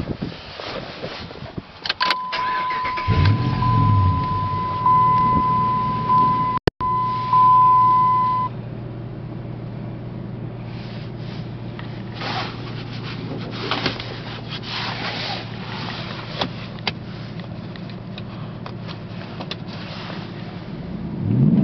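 Dodge Ram Rumble Bee's 5.7-litre Hemi V8 cranking and starting about three seconds in, then settling to a steady idle, with a steady high warning chime sounding from about two seconds in until about eight. A few clicks come before the start, and the engine begins to rev right at the end.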